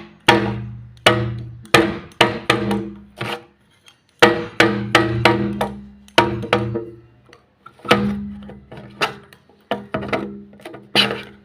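Percussive music: a quick, irregular run of sharp struck notes, each ringing briefly at a pitch and dying away, with a short pause partway through.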